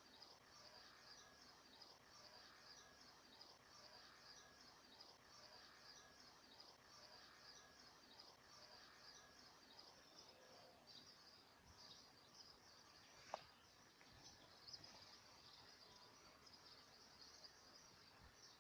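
Faint chorus of insects: a steady, pulsing high trill, with one sharp click about thirteen seconds in.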